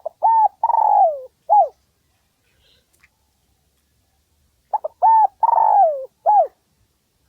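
Spotted dove cooing: two phrases a few seconds apart, each of about four notes, with a long note that slides down in pitch before a short final note.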